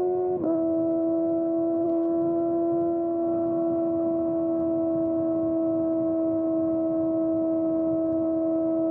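Kawasaki ZX-4RR's inline-four running through a Trick Star Ikazuchi slip-on exhaust, holding a steady high-revving drone under way. About half a second in, the engine note dips briefly and settles at a slightly lower pitch.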